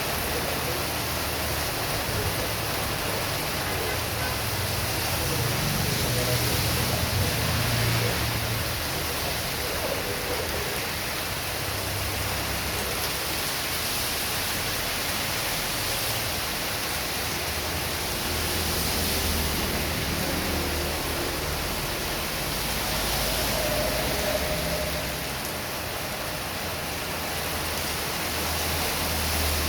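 Heavy rain pouring steadily, a dense even hiss of rain, with low rumbles that swell and fade several times.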